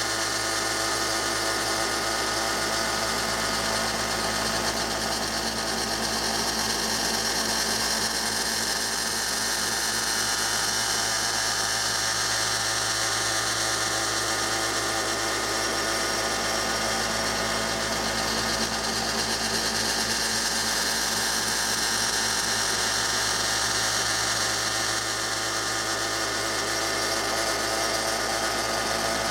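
Belt sander motor running steadily with a leather stropping belt, a knife edge held lightly against the belt to polish it and wipe off the last of the burr.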